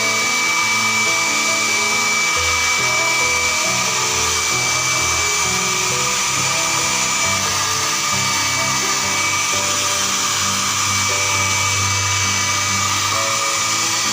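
A Philips 1000 W hair dryer running steadily, a high motor whine over the rush of air.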